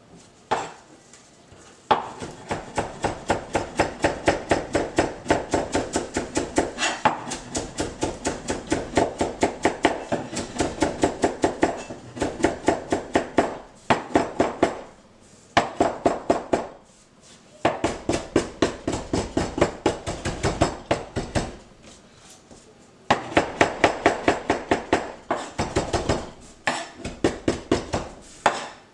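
Kitchen knife chopping cilantro on a cutting board: fast, even chops at several a second, in long runs broken by brief pauses.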